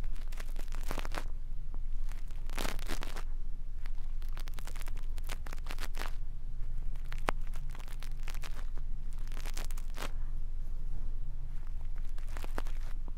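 Brush bristles swept over an ear-shaped ASMR microphone, giving short, scratchy, rustling strokes at irregular intervals, with one sharp click about seven seconds in. A steady low hum runs underneath.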